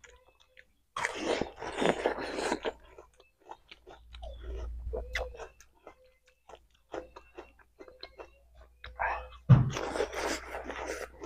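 Close-miked eating sounds: crunchy bites and chewing of a fresh water apple (jambu air). There are two spells of loud crunching, about a second in and near the end, with softer chewing clicks between.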